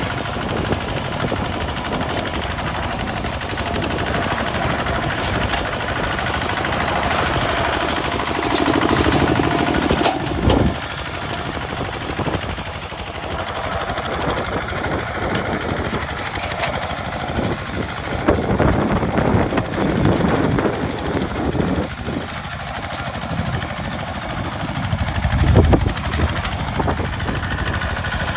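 Single-cylinder Kubota RT diesel engine of a walking tractor, running with a rapid knocking chug as it plows. It swells louder briefly about 10 seconds in and again near the end.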